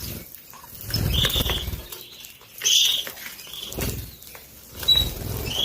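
Canaries fluttering their wings in several short bursts, with a few brief chirps in between.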